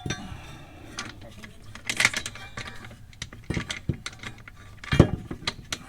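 Irregular metallic clicks and knocks of tools and car parts being worked, with heavier knocks about two seconds in and about five seconds in.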